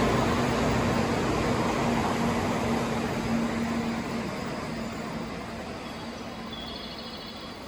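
N700A Shinkansen train pulling out of the station, its running noise fading steadily as it moves away, with a steady hum that stops about four seconds in. Faint high chirps come in near the end.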